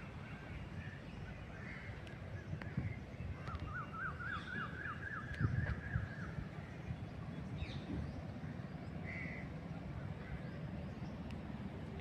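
Birds calling, with a quick run of about ten rising notes in the middle, over a steady low rumble and a couple of thumps about five and a half seconds in.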